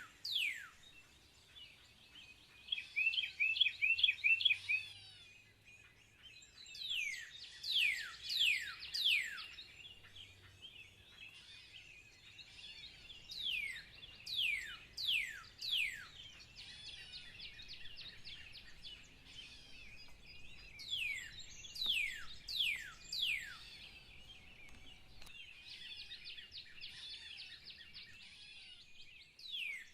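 Songbirds singing: a quick trill of short chirps, then repeated runs of sharp notes that each sweep down in pitch, with fainter chirping in between.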